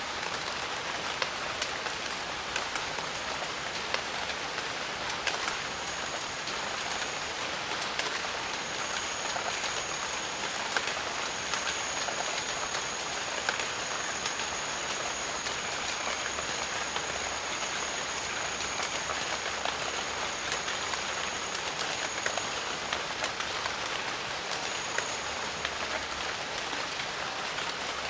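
Steady rain in a jungle, an even hiss dotted with small sharp drop ticks. A thin high-pitched steady tone runs through it from about six seconds in until shortly before the end.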